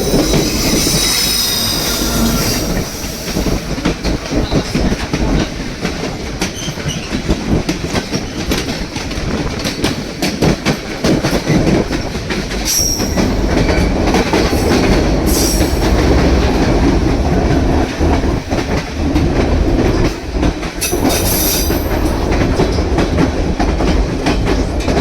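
White Pass & Yukon Route narrow-gauge train running, a steady rumble with the clatter of wheels over rail joints. High-pitched wheel squeals from the curves come at the start, around halfway and again a few seconds before the end.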